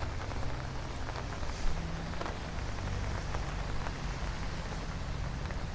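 Rain falling steadily on the street and pavement, with scattered drops ticking on nearby surfaces and a low steady hum underneath.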